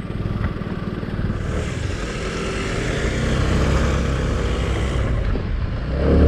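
Motorcycle engine running as the bike pulls away and rides on, its note climbing gradually, with wind rush on the microphone building up after a second or so.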